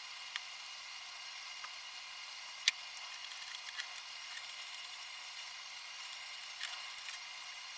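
A steady hiss with a few light, sharp clicks scattered through it, the loudest nearly three seconds in.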